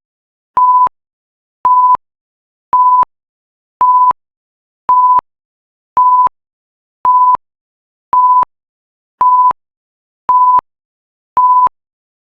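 Timer alarm beeping: one clear, high electronic tone about a third of a second long, repeating evenly about once a second, about eleven times, signalling that the nine-minute countdown has finished.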